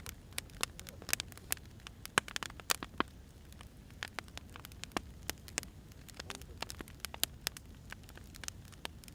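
Firewood crackling as it burns: irregular snaps and pops over a low, steady hiss, busiest around two to three seconds in.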